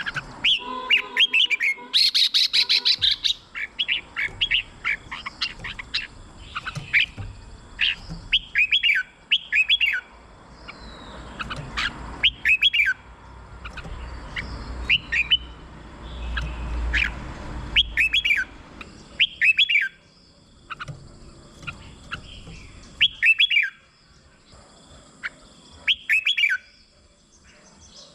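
Red-whiskered bulbul singing: short, bright warbled whistle phrases repeated every second or two, with a quick chattering burst about two seconds in. A low rumble runs under the song around the middle.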